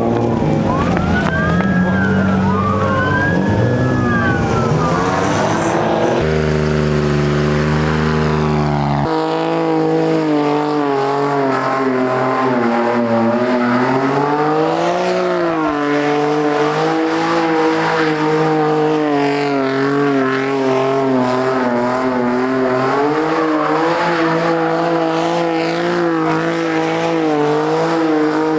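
Car engine revving hard and held high, its pitch rising and falling as the throttle is worked, with tyres squealing in the first few seconds as a car drifts.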